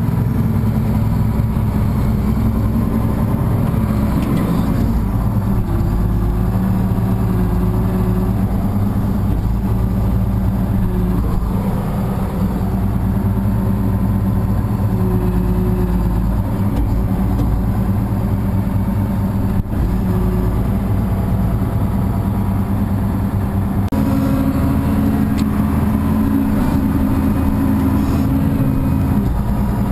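A vehicle engine running steadily, its pitch shifting about five seconds in and again near the last quarter as engine speed changes.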